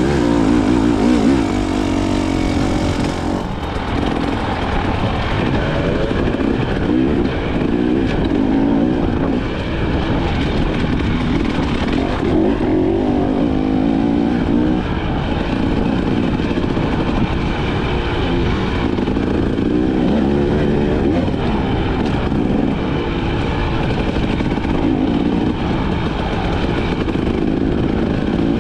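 KTM 300 XC-W two-stroke dirt bike engine running under load, its revs rising and falling over and over as it rides.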